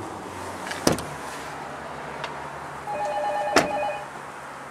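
A sharp knock about a second in, then a steady electronic beep tone lasting about a second near the end, with a click partway through it.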